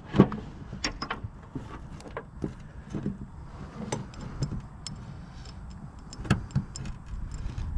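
Scattered metallic clinks and knocks of bolts and hand tools being handled while fitting a bearing to a steel mower deck, the loudest knock just after the start.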